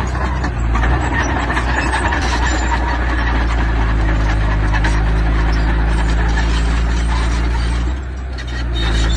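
Diesel construction machinery running steadily with continuous clanking and scraping of metal and stone, dipping briefly about eight seconds in.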